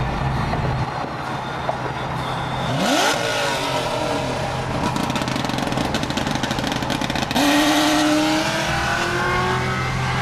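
Car engines accelerating hard: engine pitch climbs about three seconds in, and a louder run cuts in suddenly near the eighth second, its pitch rising steadily.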